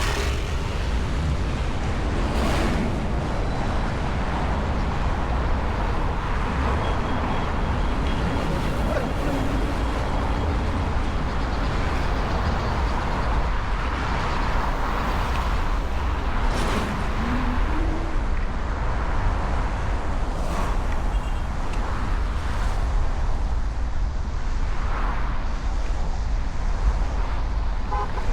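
Steady city street traffic noise with a strong low rumble.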